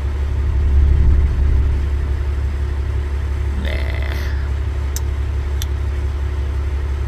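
Distant rock-quarry blast heard as a brief, dull low rumble about a second in, over a vehicle engine idling steadily. It is a weak shot that barely moved the rock.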